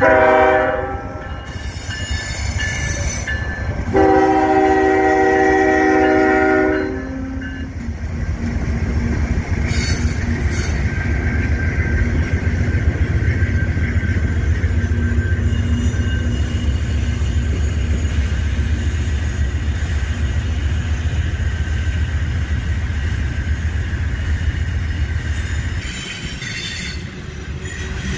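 Freight train headed by four GE and EMD diesel locomotives passing. The horn sounds briefly right at the start and again in a longer blast of about three seconds, a few seconds in. After that comes a steady loud rumble of the diesel engines and rolling cars, easing off near the end.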